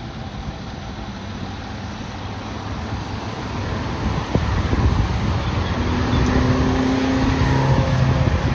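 Fire engine's diesel engine pulling out, its rumble growing louder about halfway through. Near the end a steady pitched tone sounds for about two seconds.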